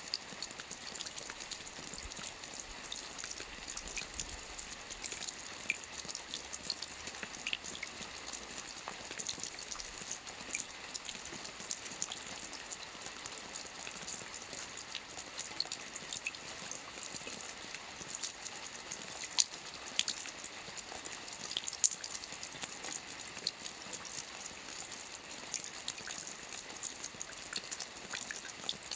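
Steady rain with a continuous hiss and many individual drops ticking on a surface, a few louder drop impacts scattered through.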